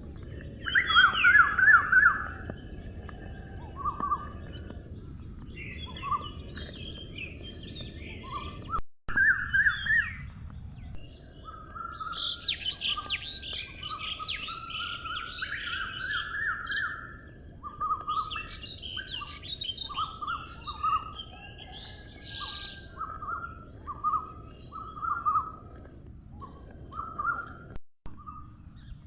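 Several birds singing: short chirps repeated throughout, with bursts of fast, high trills in the middle, over a steady low hiss. The sound cuts out completely for a moment twice.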